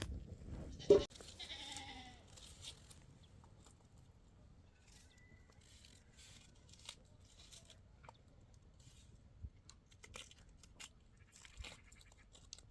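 A sharp knock about a second in, followed by a goat's short bleat; after that only faint scattered clicks and rustles.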